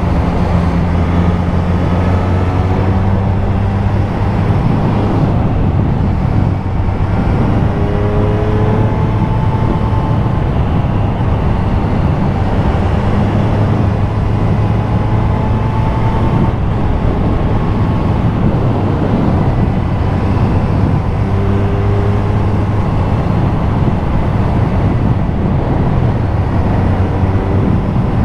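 Triumph Street Triple RS three-cylinder engine running under way at a fairly steady pace, heard from the rider's position with heavy wind rushing over the microphone.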